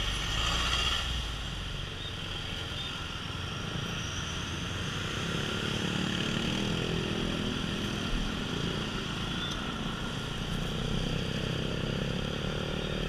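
Motorcycle engine running under way, its pitch rising and falling a little, with steady wind and road noise.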